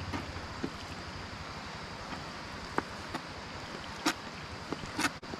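Steady sizzling hiss of diced potatoes frying in a hot skillet over a campfire, with scattered small crackles and two sharper clicks about four and five seconds in.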